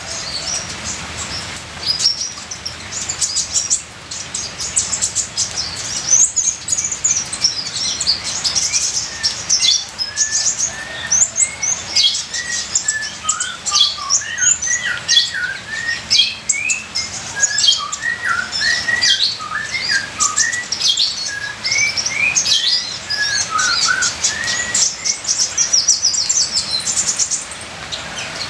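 Sunbird (the 'kolibri ninja' of Indonesian bird-keepers) singing a fast, unbroken high twittering song of rapid chirps, joined from about 12 s to 26 s by a string of short lower rising notes, over a steady trickle of water.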